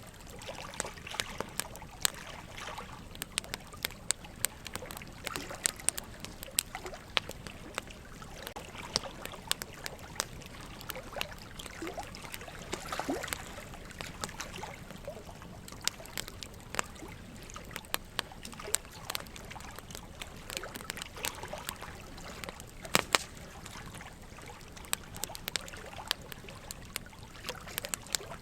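Wood fire crackling, with frequent sharp pops and snaps, over a steady trickling water sound.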